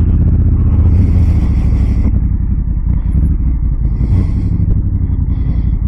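Motorcycle engine running at low speed while the bike is turned round, a steady low note.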